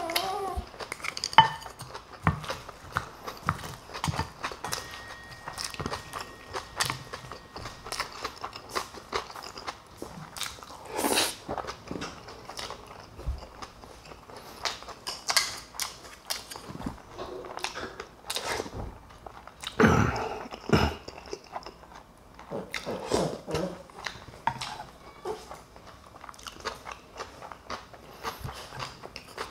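A person chewing and biting food close to the microphone, with irregular crunches and sharp clicks.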